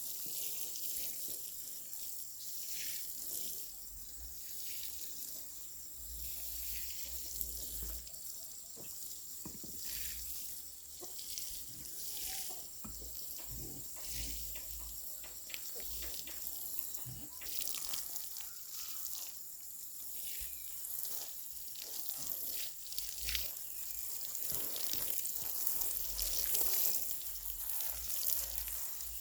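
Water running and splashing, a steady hiss broken by many small irregular splashes.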